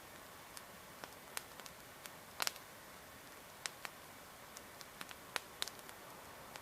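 Wood campfire crackling: irregular sharp pops from the burning logs over a faint steady hiss, the loudest a quick double pop about two and a half seconds in.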